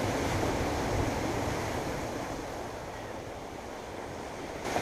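Ocean surf washing in a steady noise, with wind buffeting the microphone in a low rumble; it eases off somewhat after the halfway point.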